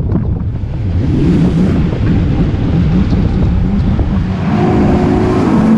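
Motorboat engine running, with wind buffeting the microphone; a steadier pitched drone comes in near the end.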